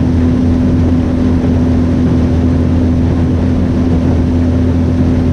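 Motorboat engine running steadily under way, a constant low hum with a steady tone over it and a haze of wind and water noise.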